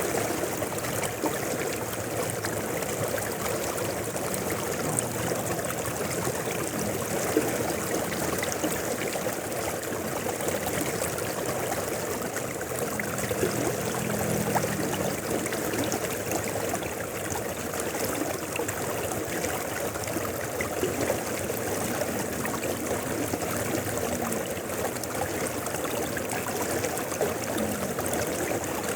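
A mountain river flowing, its water running in a steady, even rush with small splashes and trickles.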